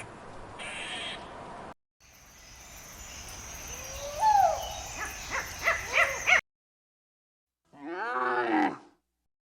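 Calls of farm animals from separate clips cut together: a short call, then a loud call that rises and falls followed by several quick shorter calls, then after a brief silence one drawn-out call of about a second.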